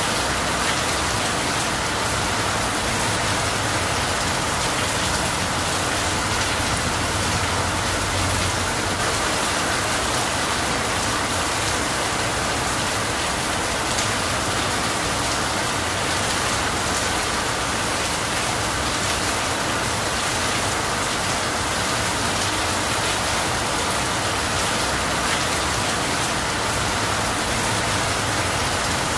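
Steady rain falling on leafy trees, with water streaming off the eaves. An even, unbroken hiss with no thunder.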